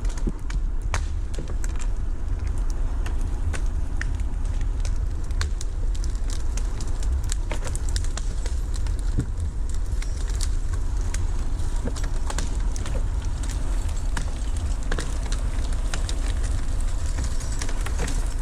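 A deep, steady engine rumble with many sharp cracks and snaps scattered over it.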